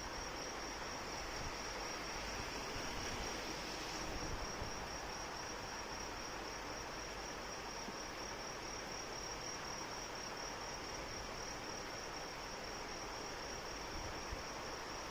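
Steady rain falling, with crickets giving a continuous high-pitched trill over it.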